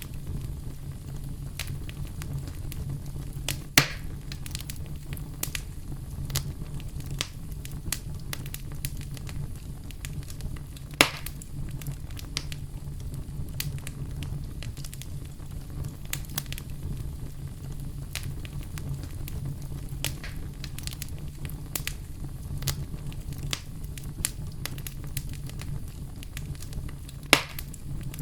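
Campfire burning and crackling: a steady low rumble of the flames under frequent small irregular snaps, with three louder pops about 4, 11 and 27 seconds in.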